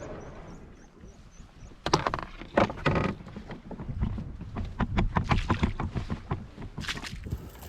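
Open canoe being paddled: splashes of water and irregular knocks of the paddle against the hull, with a cluster of strokes about two to three seconds in.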